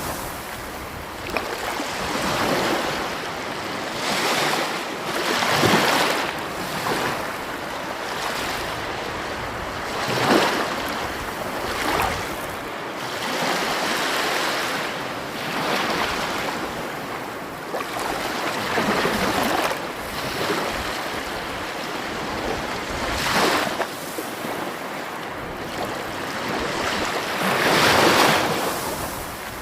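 Sea waves breaking on a shore, each surge of surf rising and washing back every few seconds. The biggest breakers come about ten seconds in and near the end.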